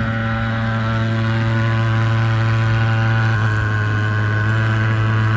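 Agrofog AF-35 pulse-jet fogging machine running, a loud, steady pitched drone.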